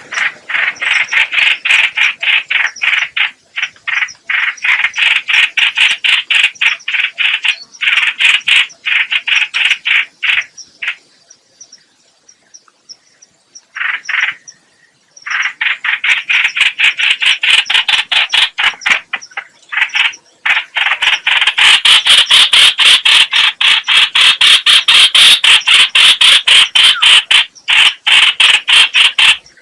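Trao trảo (chao chảo) bird call as played for trapping: long bouts of rapid, harsh repeated notes, about five a second. The calling breaks off for a few seconds near the middle, apart from one short burst, and is loudest through the second half.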